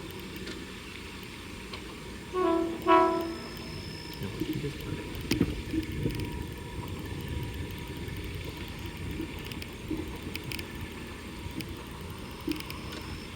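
Horn of an Oigawa Railway 16000 series electric train: two short blasts, the second louder, followed by a low rumble.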